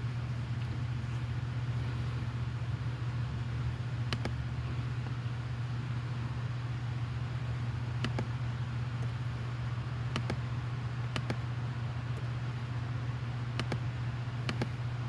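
A steady low hum, with a sharp click every second or few, about six in all.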